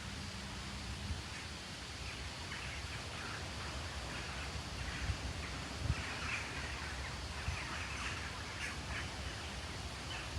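Steady rustling of leaves in the wind, with birds calling repeatedly from a couple of seconds in, busiest toward the middle.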